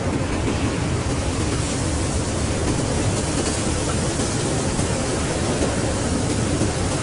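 Blizzard wind blowing steadily: a dense rushing noise with a deep rumble underneath and a hiss on top, the hiss growing a little stronger about a second and a half in.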